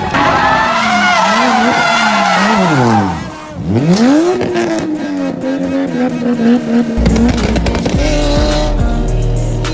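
Car engine revving hard with tyres squealing, as in a drift. The engine note wavers for about three seconds, falls away, then shoots back up and holds steady. Heavy bass music comes in about seven seconds in.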